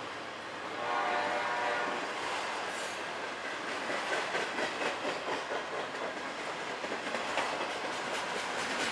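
Freight train of autorack cars rolling past close by: steady wheel-on-rail rumble and hiss, with wheels clicking over rail joints more and more often toward the end. About a second in, a brief pitched tone sounds for about a second.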